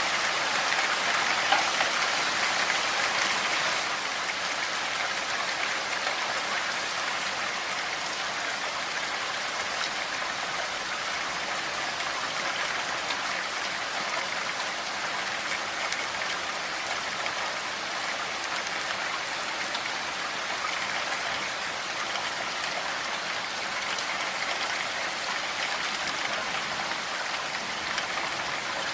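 Steady rain falling, a dense even hiss of drops, a little heavier for the first few seconds.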